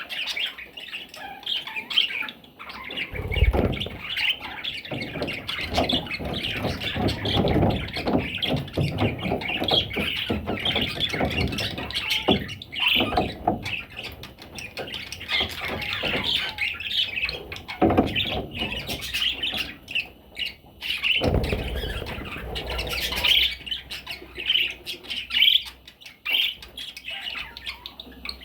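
Parrot chicks squawking and chirping in a continuous busy chatter, with a few low bumps about 3 and 21 seconds in.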